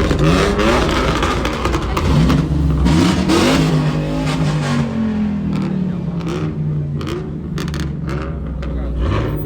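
Car engines revving, the pitch climbing and dropping again and again, with one long falling note as an engine winds down about halfway through.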